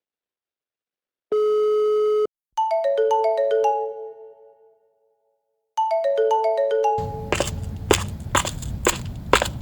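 Edited-in electronic sound effects: one steady beep lasting about a second, then a quick falling run of bell-like notes that rings out. The run starts again near 6 s, and about a second later a rushing noise with sharp clicks comes in under it.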